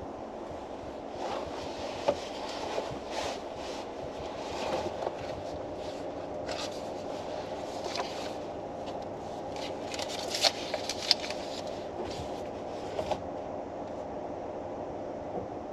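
Paper rustling and light ticks from handling a book, scattered over a steady hum in a car's cabin. The sharpest ticks come about two seconds in and a few more around two-thirds of the way through.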